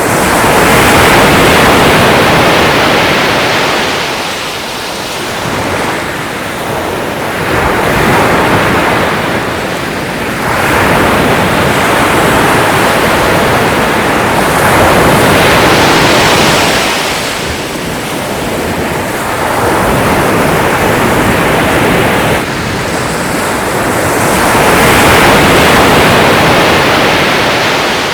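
Sea surf: waves washing in and drawing back, a continuous rushing that swells and eases every few seconds.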